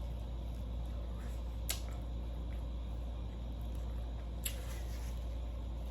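Two short, faint mouth clicks while eating fried red snapper, about three seconds apart, over a steady low hum.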